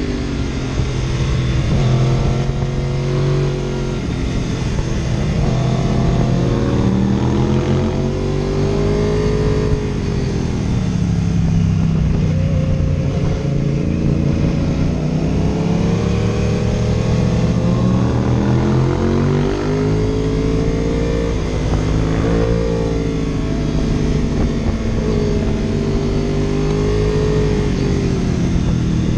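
Vehicle engine driven hard, its pitch climbing as it accelerates and dropping as it slows, over and over.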